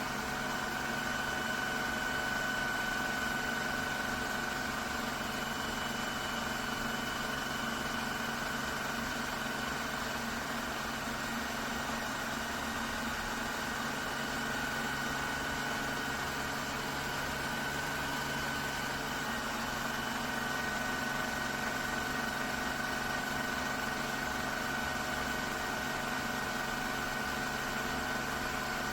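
iRobot Roomba Combo Essential robot vacuum running: the steady whine of its suction fan over an even motor hum.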